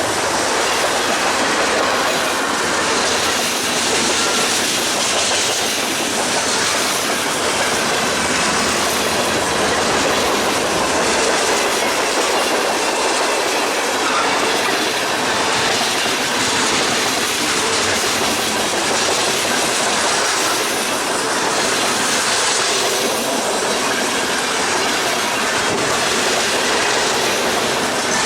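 Long freight train rolling past at speed, the wheels of its cars clattering steadily over the rails, loud and even throughout.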